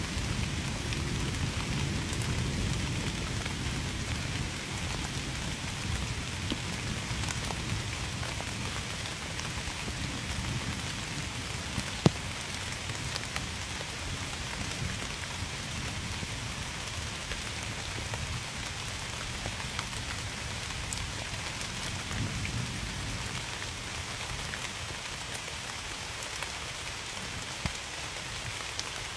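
Steady heavy rain falling and pattering on surfaces, with a low rumble that swells in the first few seconds and again about two-thirds of the way through. A single sharp drip-like tick comes about twelve seconds in.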